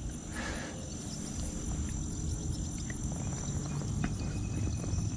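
Insects trilling steadily in a high, even tone over a low rumble, with a few faint ticks.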